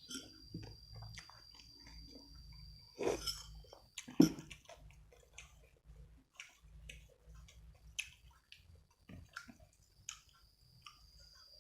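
Close-miked chewing and wet mouth noises of someone eating rice with sambal and raw vegetables: many small clicks and smacks, with a couple of louder bites about three and four seconds in.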